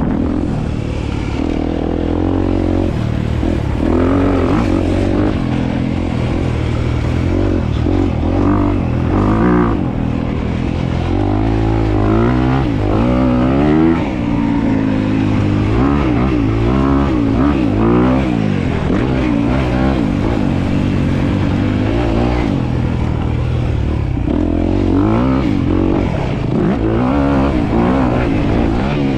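Dirt bike engine running hard, its pitch rising and falling over and over as the throttle is opened and closed.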